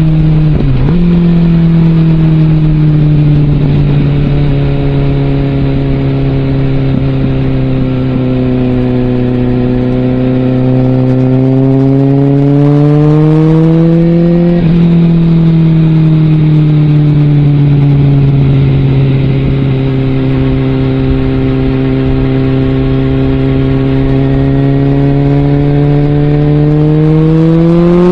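Suzuki GSX650F inline-four engine through a Scorpion aftermarket exhaust, riding under load. The pitch climbs slowly as the bike accelerates, drops sharply with a gear change about a second in and again about halfway through, then rises once more near the end.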